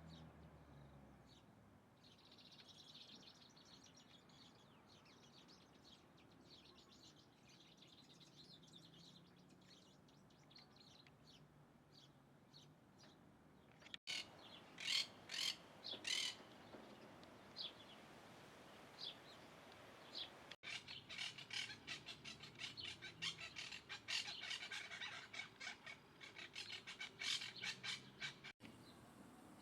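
Small birds chirping: faint, scattered chirps at first, then louder sharp chirps about halfway in and a fast, dense run of chirping in the last third, with abrupt breaks between passages.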